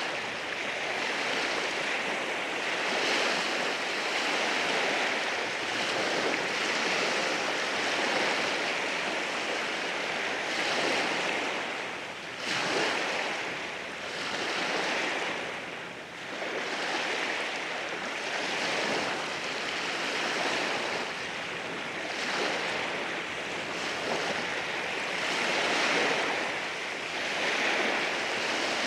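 Sea waves washing in over rocks on a rocky shore: a continuous hiss of surf that swells and eases every couple of seconds, with a sharper surge about twelve seconds in.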